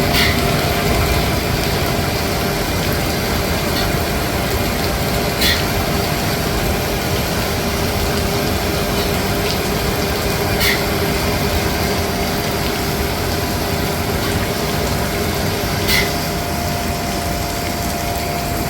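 Steady machine drone with a hiss of rain over it, and a short click about every five seconds, four times, as the hand pump filling the Boeing 767-400's centre hydraulic reservoir is stroked slowly.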